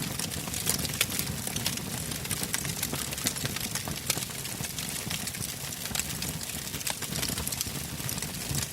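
Wood campfire burning, a steady low rumble of flames with frequent sharp crackles and pops of burning logs.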